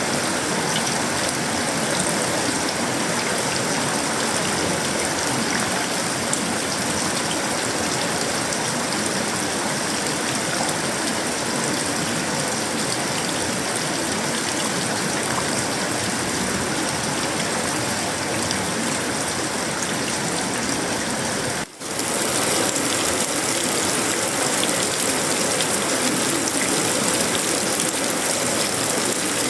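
Tropical rain falling steadily on a sheet-metal roof, wood and leaves. The sound cuts out for an instant about two-thirds of the way through, then carries on unchanged.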